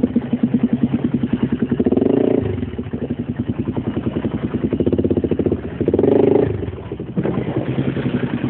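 Small off-road motorcycle engine running at low revs with a fast, even putter. It swells louder briefly twice, about two seconds in and again about six seconds in.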